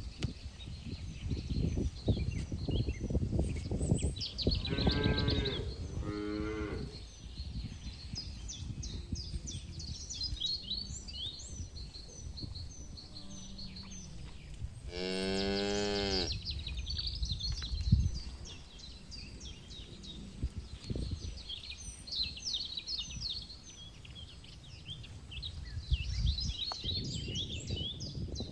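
Cattle mooing: two short moos about five seconds in and a longer, louder moo around the middle. Birds chirp throughout.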